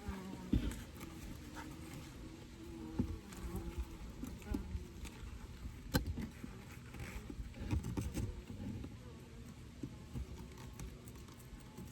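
Honeybees buzzing around an open hive, individual bees passing close with wavering hum. Scattered sharp knocks and clicks from wooden hive frames being handled, the loudest about six seconds in.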